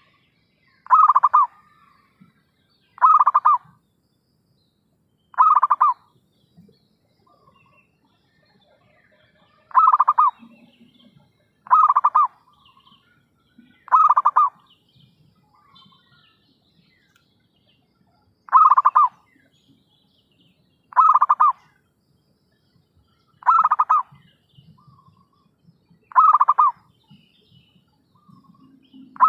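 Zebra dove (perkutut) cooing: a short, rapid pulsing coo about half a second long, repeated about eleven times at intervals of two to three seconds, with a couple of longer pauses.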